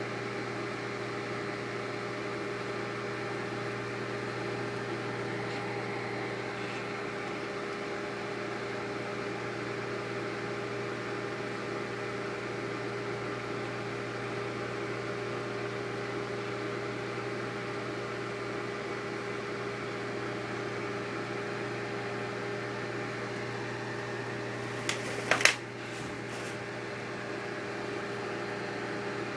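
Microwave oven running with a steady hum and fan whir while it heats a bar of soap. A few sharp clicks come a few seconds before the end.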